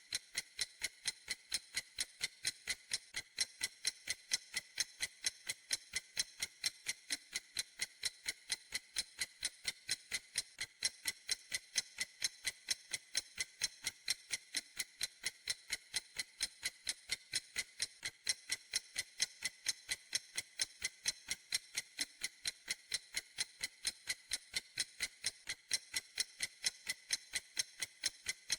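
A clock ticking steadily, with sharp, even, high-pitched ticks several times a second.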